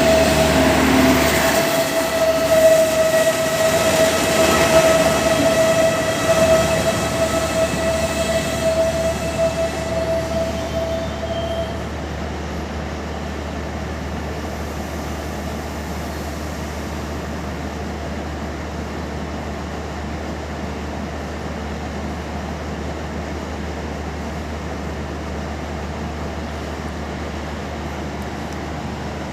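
MAN diesel railcar with a steady high squeal for about the first twelve seconds, which then stops. A steady low engine hum continues after it, as the train stands at the platform.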